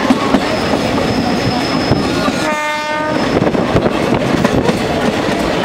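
Passenger train running along the track, heard from on board as a steady rush of wheel and rail noise, with a thin high whine in the first two seconds. About two and a half seconds in, the train horn sounds once, briefly.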